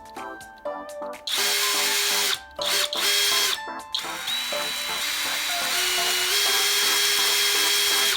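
Abeden HY-2035 18V brushless drill driver running in three bursts, two short and then a last one of about four seconds, its motor whine stepping in pitch during the long run.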